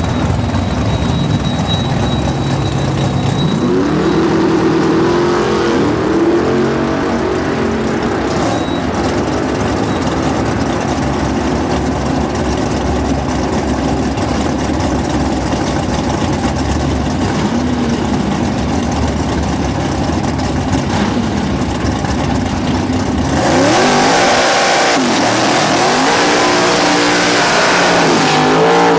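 Holden VL Calais drag car's V8 engine running loud, its revs rising and falling. About 23 seconds in it becomes louder and harsher, with quick sweeps up and down in pitch.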